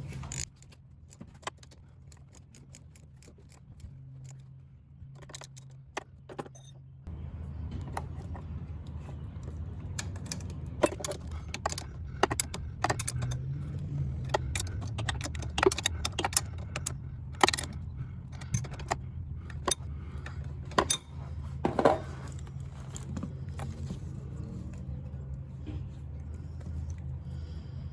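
Scattered metallic clicks and clinks of a socket wrench tightening nuts on the mower's solenoid terminals. A steady low hum sits underneath and grows louder about seven seconds in.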